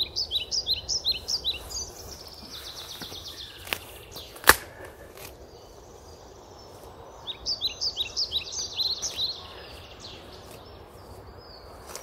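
Songbird singing: quick series of high, repeated chirps, a short faster trill, then another series of chirps a few seconds later. A sharp click about four and a half seconds in, with a fainter one just before it.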